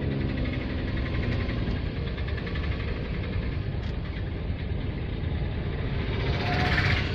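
Car engine and road noise during a drive: a steady low rumble, with a brief louder, brighter sound near the end.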